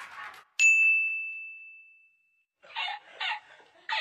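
A single bright, bell-like ding that rings out and fades over about a second and a half. Near the end, short bursts of a man's laughter begin.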